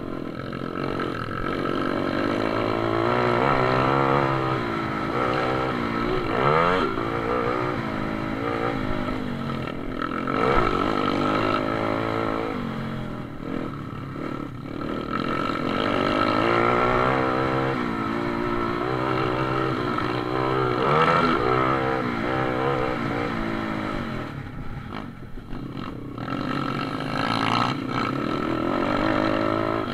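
Several pit bike engines revving hard and changing speed during a race, the overlapping engine notes rising and falling over and over.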